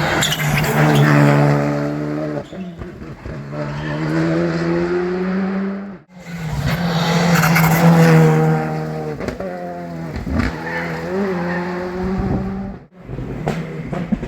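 Rally cars running hard on a tarmac stage, engines revving up through the gears and dropping on the overrun. The sound breaks off abruptly twice, about six seconds and thirteen seconds in, with a fresh car pass after each break.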